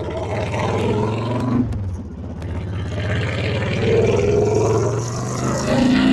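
The 1300cc V-twin engine of a Honda Fury chopper running under way. Its revs rise and then dip twice, about two and five seconds in.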